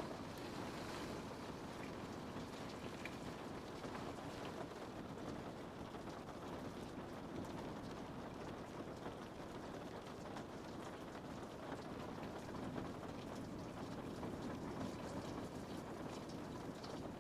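Steady rain falling on a window: a constant hiss of rain with many small drops ticking against the glass.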